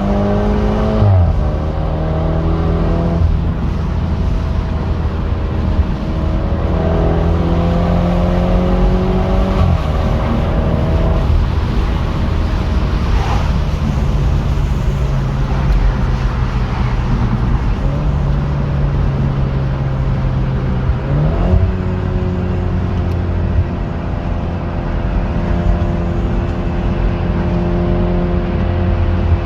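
BMW 430i convertible's turbocharged four-cylinder engine and exhaust under way, the engine note drifting up and down with several sudden pitch steps as gears change, over steady road noise.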